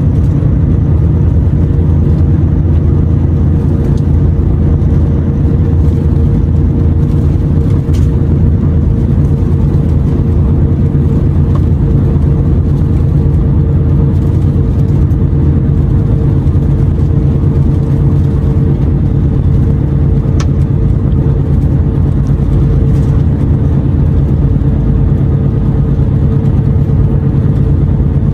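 Renault T480 truck's six-cylinder diesel engine running steadily under way, a loud, even low drone with road rumble, heard from inside the cab.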